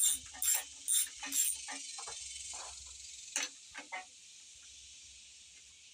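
Ratchet wrench clicking through a few quick strokes, about two a second, as a fastener on a Dodge 360 V8 is worked loose, then a few single ticks. A steady high hiss of insects runs underneath.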